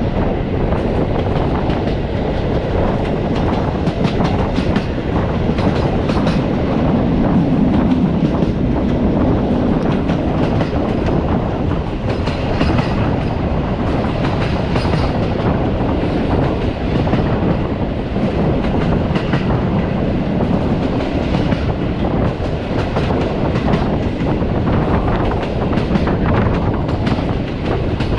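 Passenger train coach running on the rails: a continuous rumble of the wheels with a rapid clickety-clack of knocks as they pass over rail joints.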